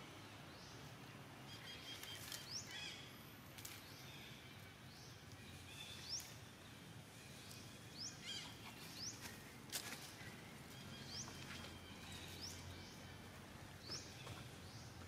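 Faint outdoor ambience with short, high, rising bird chirps repeating every second or two, and a few sharp clicks.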